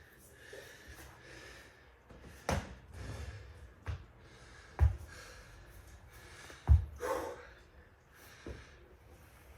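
A man breathing hard and gasping after exercise, with three dull thumps in between, the last and loudest about two-thirds of the way through.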